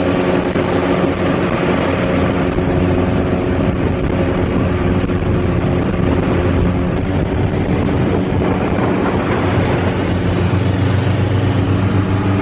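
A 1970s large-displacement motorcycle engine running steadily, with wind on the microphone. Its low note grows a little stronger about three quarters of the way through.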